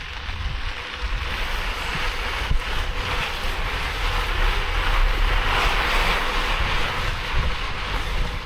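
Wind rushing over the microphone of a moving mountain bike: a steady, noisy rush with a heavy low rumble.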